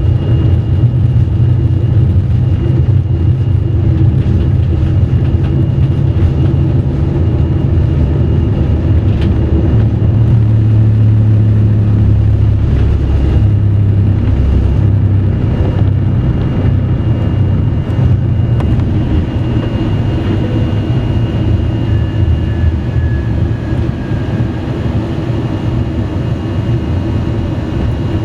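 Steady jet engine and airflow noise heard inside the cabin of an Airbus A321 airliner, a deep continuous rumble with a faint steady whine above it.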